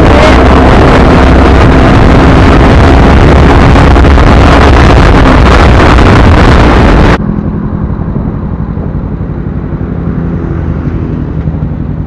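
Heavy wind noise on the microphone over a motorcycle engine running on the move. About seven seconds in it cuts off abruptly, leaving a quieter, steady engine sound without the wind.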